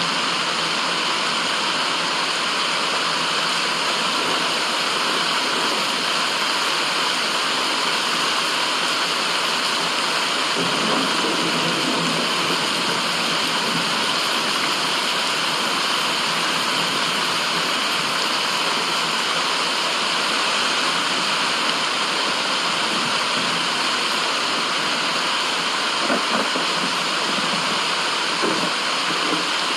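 Steady rushing of running water, continuous and unbroken.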